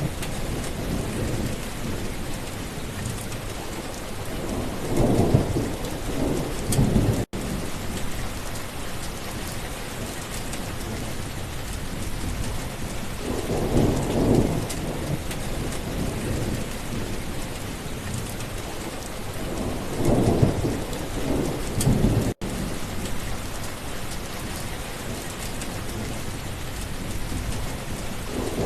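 Steady rainfall with low rolls of thunder that swell and fade several times. The sound drops out for an instant twice.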